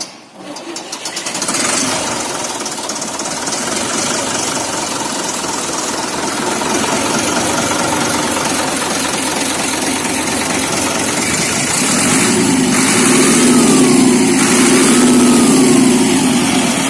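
Lamborghini 955 DT tractor's diesel engine catching and running on its first start after a repair, building up over the first couple of seconds and then settling into a steady run. Near the end it is revved up and down twice, louder, before dropping back.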